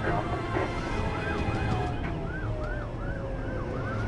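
Emergency vehicle sirens: a fast yelp of about three whoops a second, over a second long tone that slides slowly down in pitch.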